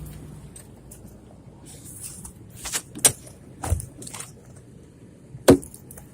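Car door being worked: a few clicks and knocks of the latch and handle, then a heavy thud about five and a half seconds in as the door shuts.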